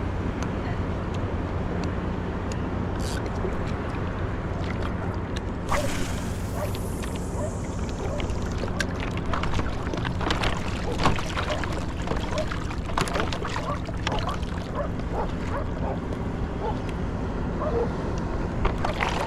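Water lapping and splashing around a surfboard on the sea, with wind buffeting the microphone; a louder burst comes about six seconds in, followed by scattered small splashes and knocks.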